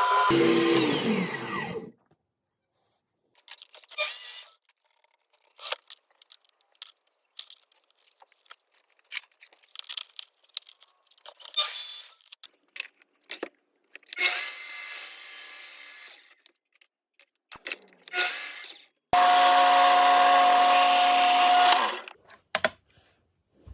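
Woodworking power tools in edited snippets: a motor spinning down in the first two seconds, scattered short tool and handling noises, then a power tool running steadily for about three seconds near the end.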